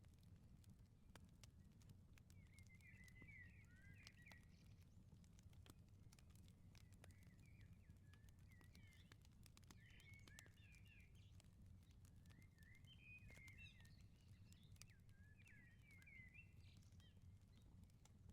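Faint wood fire crackling with scattered small pops over a steady low rumble, while a small songbird twitters in short chirpy phrases, five times.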